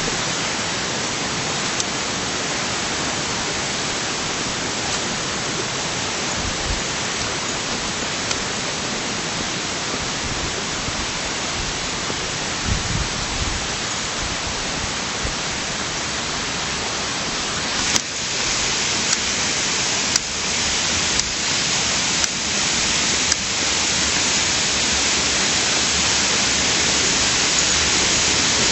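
Steady rush of flowing stream water, growing a little louder about two-thirds of the way through, with a few light clicks.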